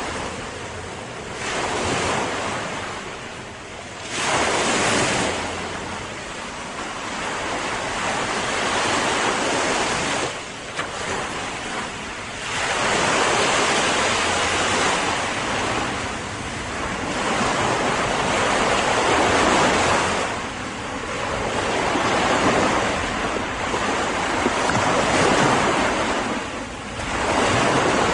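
Ocean surf: waves breaking and washing in, the roar swelling and falling back every few seconds.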